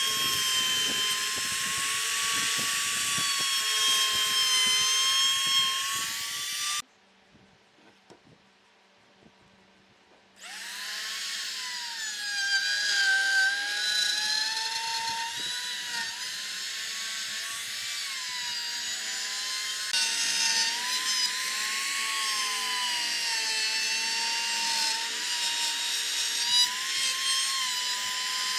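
Whine of a power tool's electric motor working wood, its pitch sagging and recovering as the cut loads it. The tool cuts off suddenly about seven seconds in, then spins back up about three and a half seconds later and keeps running.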